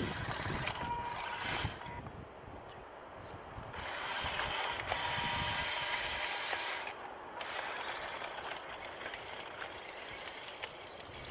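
WPL B-24 RC army truck driving, its small electric motor and gearbox whining. The whine comes in twice under a steady rustling noise, once near the start and again at about four to six seconds.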